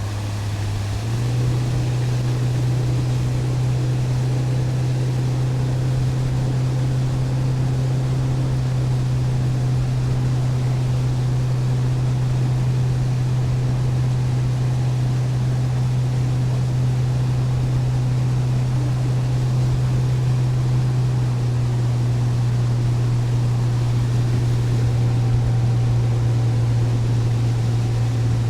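Boat motor running steadily under way, its pitch stepping up a little about a second in as the throttle opens, then holding.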